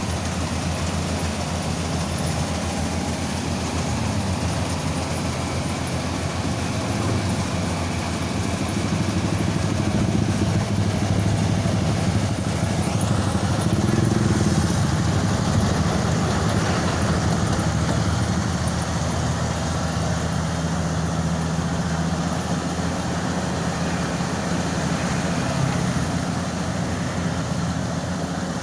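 Engine-driven rice thresher-blower (blower kombi) running steadily while threshing rice. Its pitch and level rise and fall a little midway.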